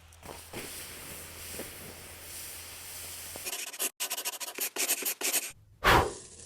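Scrubbing and rubbing in a cast iron skillet as it is cleaned out with water. After about three and a half seconds it breaks off suddenly into a run of short choppy bursts, and a loud sweep comes near the end.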